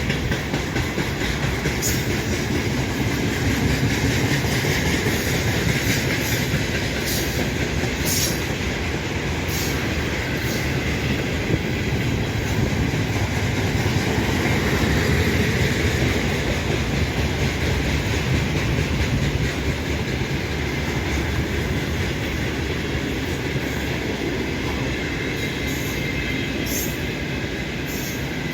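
Freight train of tank cars rolling past at speed: a steady loud rumble of wheels on rail, with repeated sharp clicks of the wheels over rail joints.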